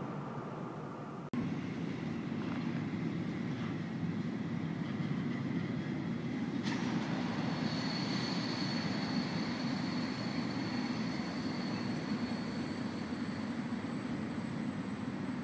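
Long freight train of covered wagons rolling past at speed, a steady rumble of wheels on rail that starts abruptly about a second in. A thin high squeal comes in about eight seconds in and lasts several seconds.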